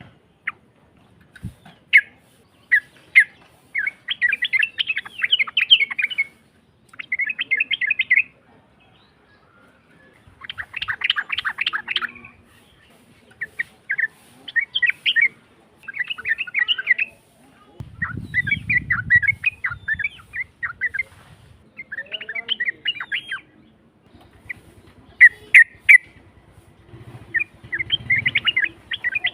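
A yellow-vented bulbul (trucukan) singing in a rough voice: bursts of quick, chattering bubbling phrases, each a second or two long, repeated after short pauses.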